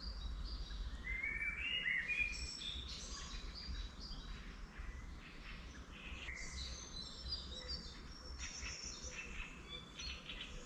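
Several wild songbirds singing at once in spring, overlapping high chirps and trills, over a steady low rumble.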